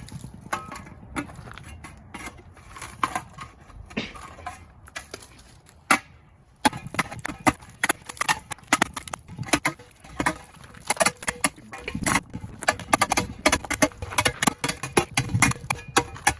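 Ice frozen solid in a bird bath being struck and chipped apart: irregular sharp knocks and cracks. After a brief lull about six seconds in, the strikes come faster and closer together.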